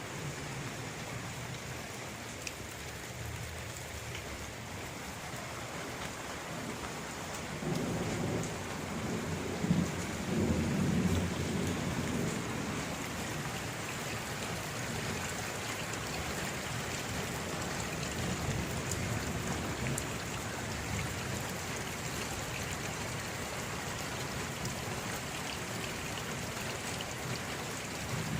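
Steady rain falling, with a low rumble of thunder that swells about eight seconds in and dies away a few seconds later.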